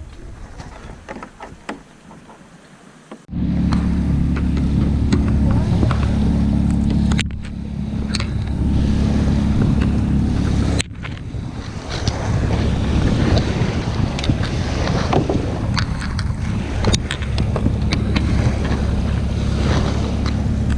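Wind buffeting the microphone as a loud low rumble, over choppy water splashing and lapping around a kayak. The rumble comes in suddenly about three seconds in and changes abruptly twice more.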